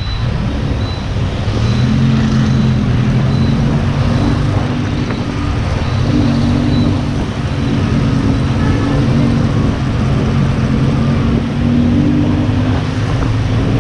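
Lamborghini Huracán's V10 running through a Fi Exhaust at low, steady revs, a deep drone that steps up slightly in pitch a couple of times.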